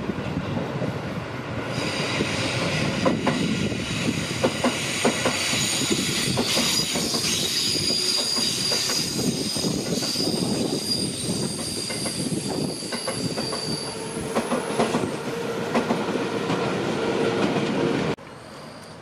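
An electric commuter train passes on the adjacent line: a steady rumble of wheels on rail with scattered rail-joint clicks, and a high-pitched wheel squeal for much of the pass. The sound cuts off suddenly near the end.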